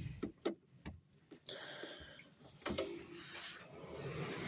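A gas appliance's igniter clicking several times, followed by a faint steady hiss as the gas is lit for heat.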